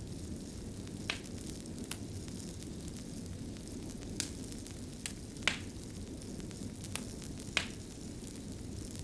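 Fire crackling over a steady low rumble and hiss, with about seven sharp pops at irregular intervals, the loudest about five and a half and seven and a half seconds in.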